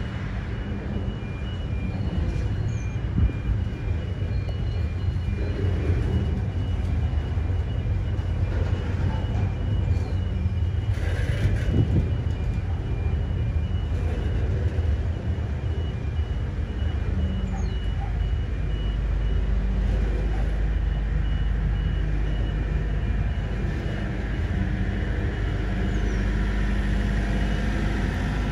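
Container freight train wagons rolling past at close range: a steady heavy rumble of steel wheels on rail, with repeated knocks and clatter as the wheels and wagon couplings pass.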